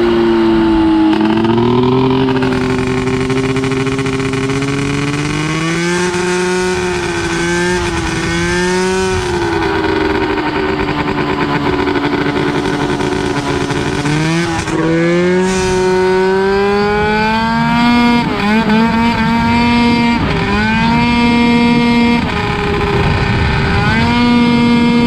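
Go-kart's 580cc two-stroke snowmobile engine (from a 1996 Arctic Cat) running hard under throttle, its pitch climbing, holding and dropping again and again as the throttle is opened and lifted, with several quick lifts and recoveries in the second half.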